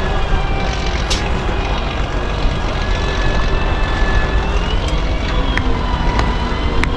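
Electric drive motor of an electric Unimog trial truck whining, its pitch slowly rising and falling as it changes speed, over a steady low rumble, with a few sharp clicks.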